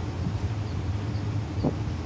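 Passenger train running at speed, a steady low rumble and hiss of the moving coach. A brief short squeak is heard near the end.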